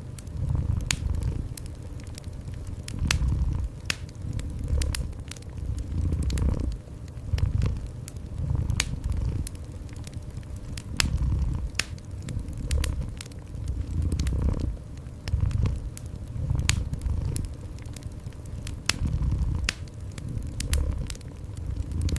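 Domestic cat purring low, swelling and fading every second or two with its breaths, while a wood fire crackles with frequent sharp pops.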